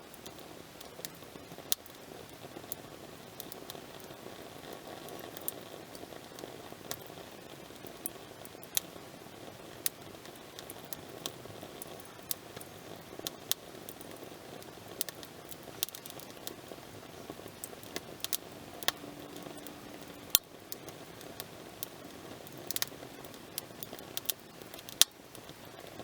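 Wood campfire burning, with irregular sharp crackles and pops over a steady hiss of the flames.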